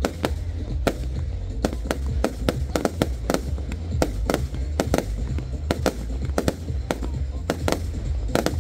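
Fireworks display bursting in quick succession, many sharp bangs at uneven spacing, several a second, with music playing underneath.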